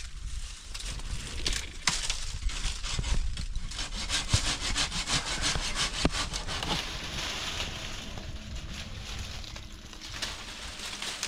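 A hand saw cutting through wood with quick, even back-and-forth strokes.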